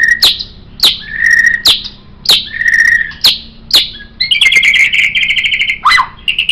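White-rumped shama (murai batu) singing: sharp, clear down-slurred notes repeated about every half second with short held whistles between them, then a fast, rapid trill from about four seconds in.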